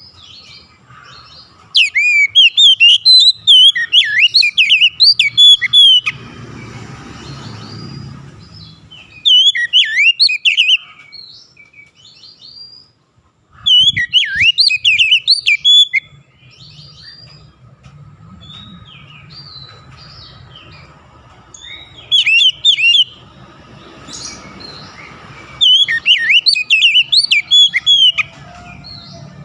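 Oriental magpie-robin (kacer) singing: loud bursts of rapid, varied whistled phrases, each a few seconds long, broken by pauses of a few seconds.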